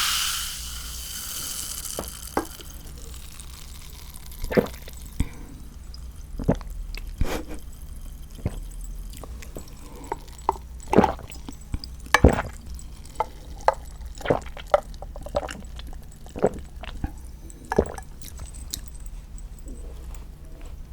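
Close-miked wet, sticky clicks and smacks at an irregular pace, from sauce-coated seasoned raw shrimp being handled and eaten. It opens with a brief loud hiss that fades within the first couple of seconds.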